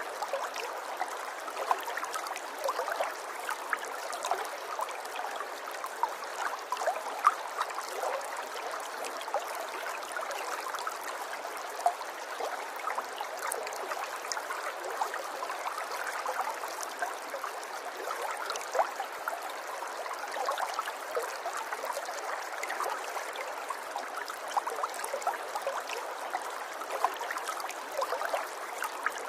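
River water flowing steadily over stones, a constant babbling rush with many small splashes and gurgles.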